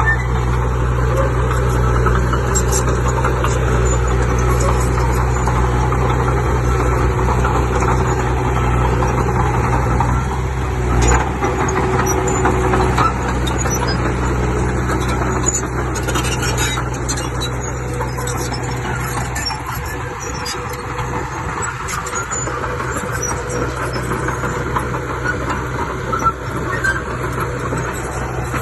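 Diesel engine of a heavy earthmoving machine running steadily. Its low note weakens about twenty seconds in, and there is a brief knock about eleven seconds in.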